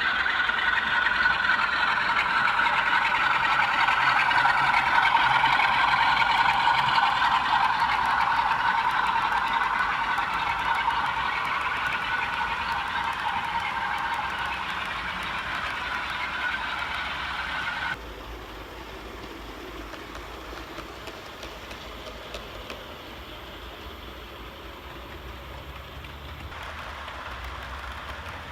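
OO gauge model train running along the layout's track, a steady rolling rumble of wheels on rail that swells and slowly eases off. About 18 seconds in it cuts suddenly to a quieter running sound.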